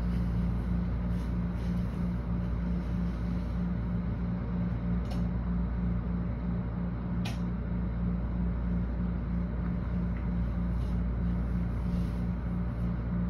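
Heavy wind-driven rain of a thunderstorm, heard from indoors through window glass as a steady, muffled rushing, with a low hum pulsing about three times a second underneath. Two faint clicks come about halfway through.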